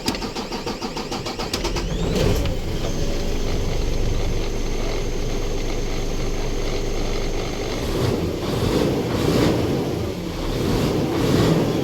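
Isuzu 6WF1 truck's diesel engine being cranked by the starter with an even rhythm for about two seconds, then catching and running steadily, with some uneven surges near the end. The engine is one the owner describes as hard starting.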